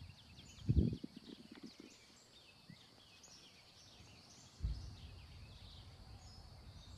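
Small birds chirping faintly in the background, short high chirps throughout. A dull thump comes about a second in, and a low rumble starts a bit past halfway.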